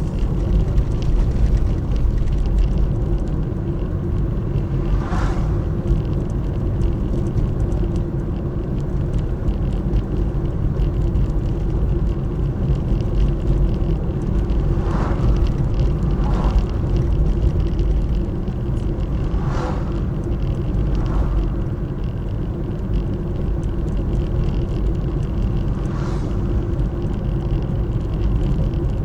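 Steady low rumble of road vehicle noise, with a constant hum and a few brief higher squeaks scattered through it.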